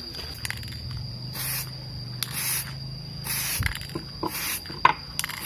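Aerosol spray-paint can sprayed in four short hissing bursts, about a second apart, with small clicks in between.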